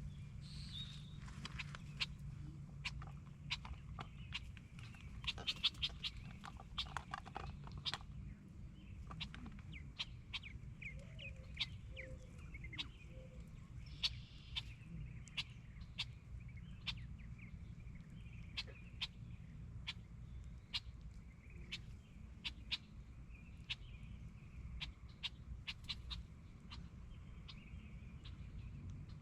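Birds chirping and calling over a low, steady rumble, with many sharp clicks scattered throughout.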